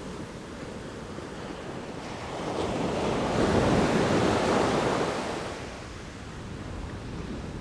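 Sea waves: one wave swells in and breaks, the rush of surf rising over a couple of seconds, peaking, then draining away, over a steady background wash of surf and wind.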